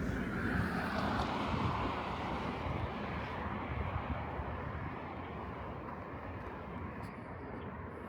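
A passing vehicle, a steady rumbling noise that drops slightly in pitch near the start and slowly fades away.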